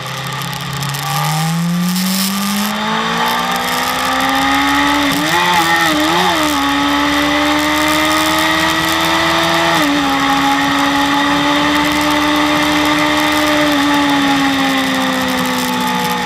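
BMW S1000RR inline-four engine pulling hard under acceleration, its pitch climbing over the first five seconds and wavering briefly. It holds high revs with a small dip about ten seconds in, then the pitch falls as the throttle eases near the end.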